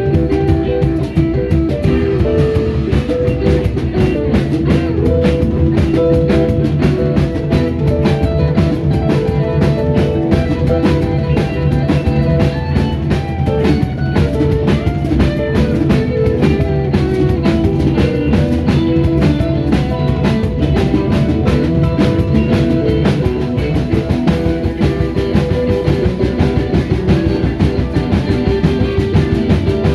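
Live rock band jamming instrumentally: electric guitar lines over bass and a drum kit keeping a steady beat.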